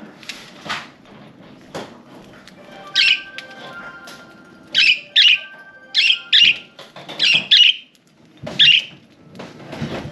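Budgerigars chirping: a series of loud, sharp calls, some in quick pairs, from about three seconds in, after a few soft clicks.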